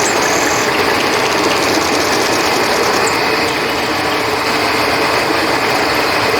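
Steady rushing of flowing river water under a continuous high chorus of crickets, with a few brief higher chirps in the first second.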